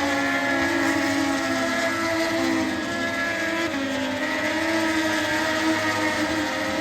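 Several MotoGP racing motorcycle engines running at once, a steady blend of engine notes with pitches that waver and glide slightly as the bikes rev.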